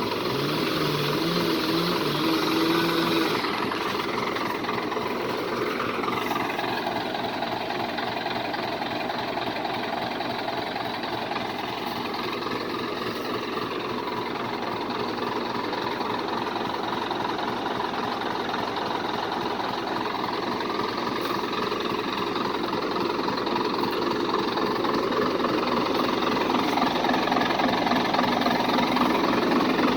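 Scania 113H 320 truck's 11-litre straight-six diesel running, its note drifting gently up and down a few times and growing a little louder near the end.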